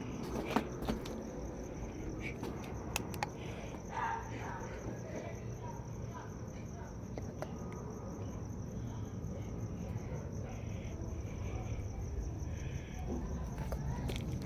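Crickets chirping in a steady, fast-pulsing trill, with a few faint clicks and knocks near the start.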